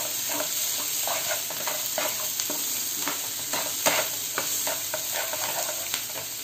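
Chopped onion, tomato and spices sizzling in oil in a frying pan on high flame, stirred by a metal spatula. The spatula scrapes and taps against the pan in many short strokes over a steady sizzle, with one sharper knock about four seconds in.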